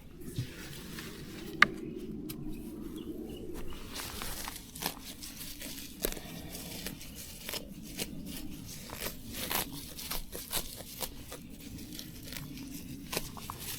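Plant stems and leaves being torn and snapped by hand: a run of irregular tearing and crackling, with one sharp snap about a second and a half in.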